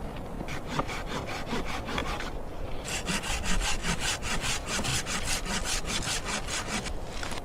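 Hand saw cutting through wood in quick, even strokes, about four or five a second, in two runs with a short pause about two and a half seconds in.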